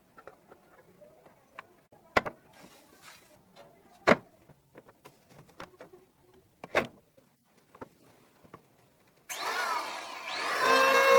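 A few sharp knocks from handwork, then a power tool starts abruptly near the end and spins up into a steady, loud whine.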